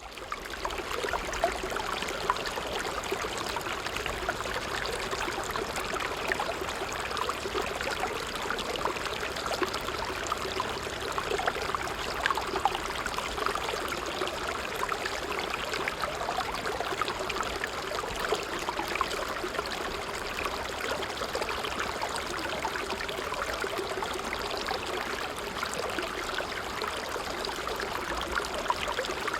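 A stream flowing steadily, an even rush of water with many small trickling splashes.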